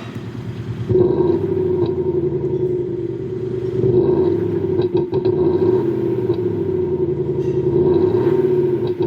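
Kia K5 (DL3) fitted with a JSR 'Soribak' sound booster: its exhaust note drones steadily, stepping up about a second in, then rises and falls with blips of the throttle twice. A few short clicks come about five seconds in.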